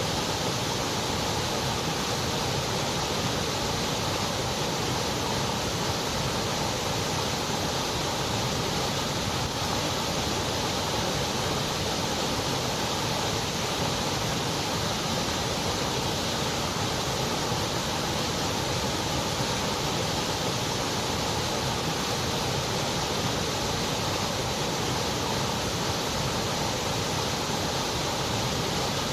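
Continuous white noise: a steady, even hiss that does not change.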